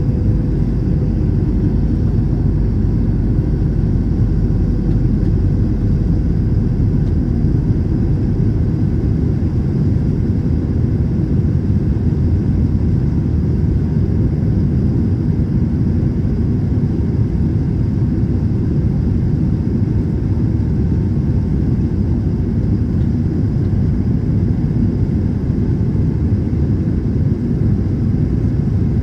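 Airbus A321 cabin noise in flight: a steady, even rumble of engines and airflow that stays unchanged throughout.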